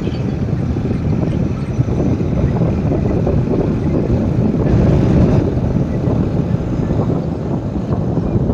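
New Holland 3630 tractor's diesel engine running steadily while pulling a laser land leveller, with wind buffeting the microphone.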